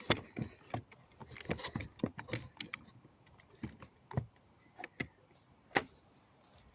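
Scattered, irregular knocks and light clatters of wooden pallet planks and hand tools being handled and set down. The loudest knocks come right at the start and just before six seconds in.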